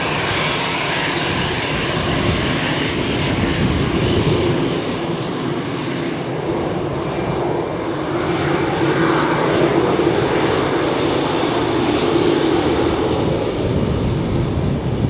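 Airbus A320 jet engines, a steady roar that swells louder about halfway through and then eases.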